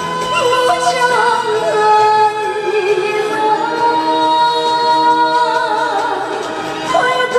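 Female trot singer singing with heavy vibrato over backing music, holding one long note in the middle.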